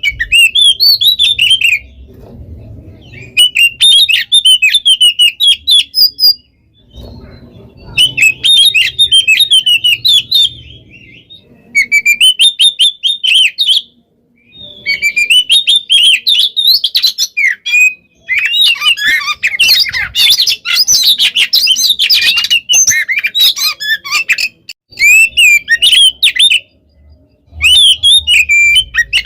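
Oriental magpie-robin (kacer) singing in fast, tightly packed runs of high chirps and trills, several seconds at a time with short pauses between. The longest, densest run comes a little past the middle.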